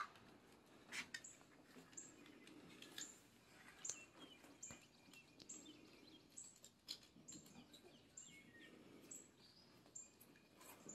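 Near-quiet outdoor air with a small bird repeating a short, very high chirp a little more than once a second, and a few faint clicks and knocks.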